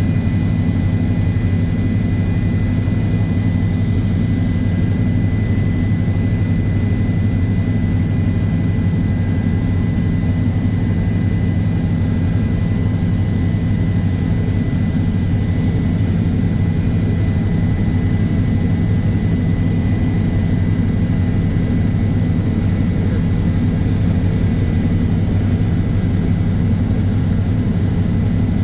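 Aircraft engines running with a steady low drone and a faint steady high whine.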